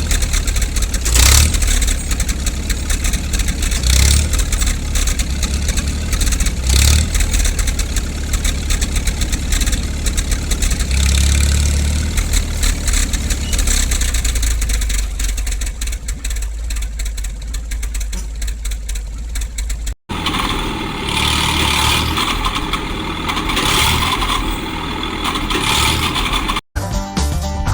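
Farm tractor engine running hard under load, revving up in repeated surges as it strains against a tow chain to drag a locked-up car. About two-thirds of the way through the sound cuts out briefly and gives way to a different, busier sound.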